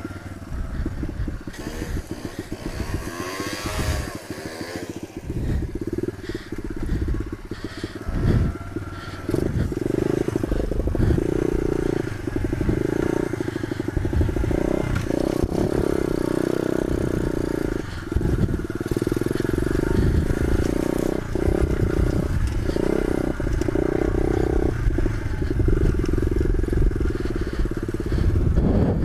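Pit bike engine running under way off-road: the revs climb and drop a few seconds in, then it holds a steady drone with brief dips, over rattles and knocks from the bike.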